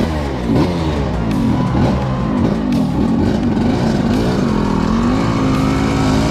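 Several small two-stroke mopeds and scooters riding past one after another, their engine notes rising and falling and overlapping as they go by.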